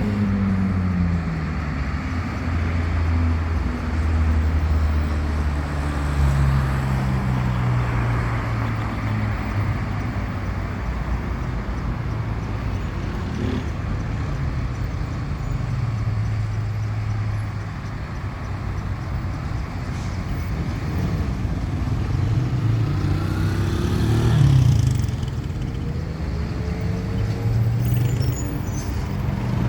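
Road traffic: motor vehicle engines running past over a steady low hum, with pitch glides as vehicles go by, one passing loudest about 24 seconds in.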